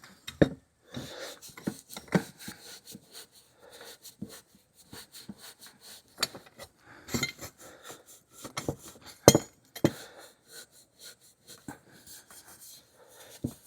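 Irregular light clinks and knocks of a stainless steel motorcycle muffler being handled and scrubbed by hand with an abrasive pad, with a few sharper knocks among them.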